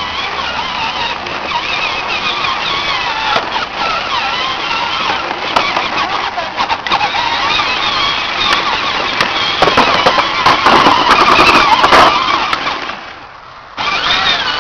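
Electric motor and gears of a battery-powered John Deere ride-on toy tractor whining as it drives, the pitch wavering, growing louder a little after the middle and cutting out briefly near the end.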